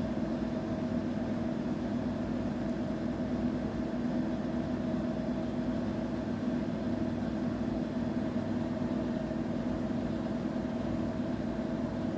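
Washing machine running with a steady, even motor hum.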